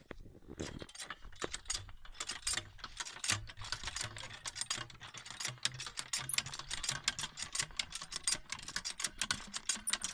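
Desi hand pump (nalka) being worked: a dense run of metallic clicks and rattles from the handle and plunger mechanism, with a low hum in the middle, while it is pumped before the water comes.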